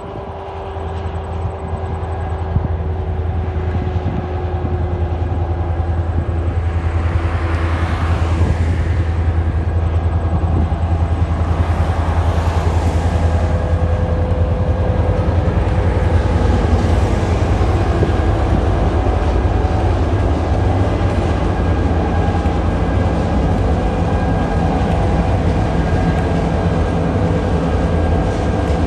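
Diesel locomotive hauling a freight train: a steady low engine note with rolling wheel and rail noise, growing louder over the first several seconds and then holding steady.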